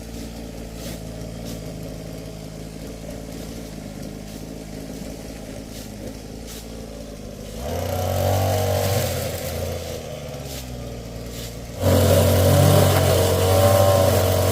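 An engine running steadily, revving up briefly about eight seconds in, then jumping abruptly to a louder, harder-working run near the end.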